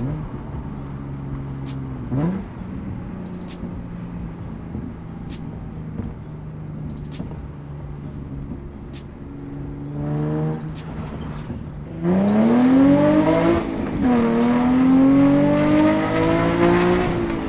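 Nissan 350Z's V6 with an aftermarket Tomei exhaust idling steadily, blipped once briefly, then pulling hard with its pitch rising, dipping at a gear change and rising again before backing off near the end.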